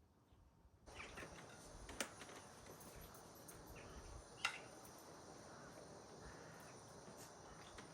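Faint background hiss with a few light clicks, the sharpest about two and four and a half seconds in.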